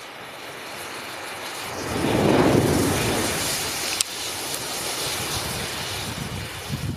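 A mass of match heads flaring up and burning with a rushing hiss that swells to its loudest about two seconds in, then burns on steadily, with one sharp crack about four seconds in.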